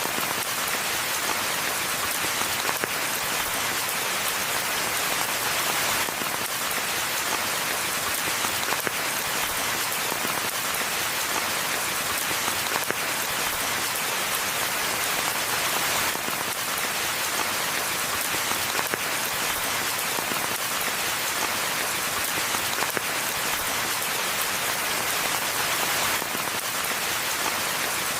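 Steady rainfall: an even, unbroken hiss of many drops with no thunder.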